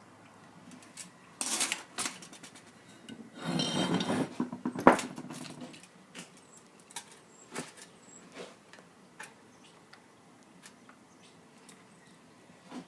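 Metal parts being handled: scattered clinks and clicks, a scraping, rattling stretch a few seconds in that ends in one sharp knock, then a few lighter clicks.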